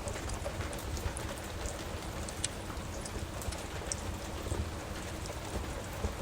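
Steady rain with a low rumble beneath it, sprinkled throughout with short sharp ticks and crackles.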